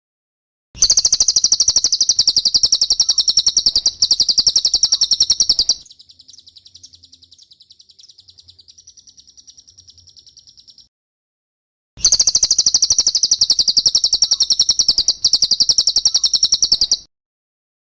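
Recorded song of a cililin bird: a fast, high-pitched chattering trill of evenly repeated notes in long loud phrases. It drops to a much quieter trill midway, pauses for about a second, then comes back loud.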